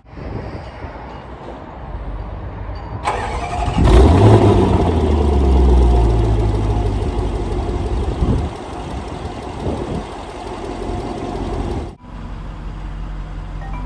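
Range Rover Sport SVR's 5.0-litre supercharged V8 starting. The starter cranks about three seconds in, then the engine catches with a loud flare of revs that falls away over several seconds and settles to a steady idle.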